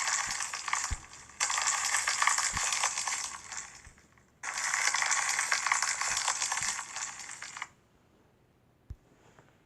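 Slime being squeezed and worked by hand, giving dense crackling in three bouts that stops about two seconds before the end.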